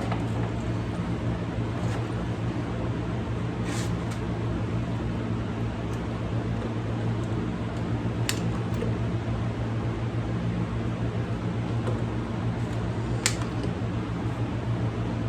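Steady low machine hum, like a running fan, with three short sharp clicks spaced several seconds apart.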